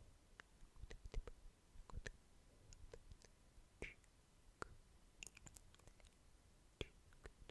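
ASMR mouth sounds: quiet, irregular wet clicks of lips and tongue, a few a second.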